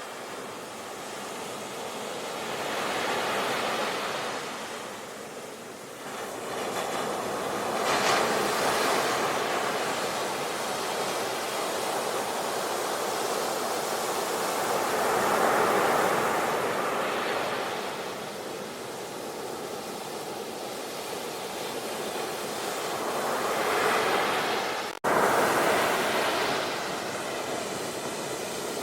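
Ocean waves breaking and washing ashore, the surf swelling and ebbing every few seconds. Near the end the sound drops out for an instant and comes straight back.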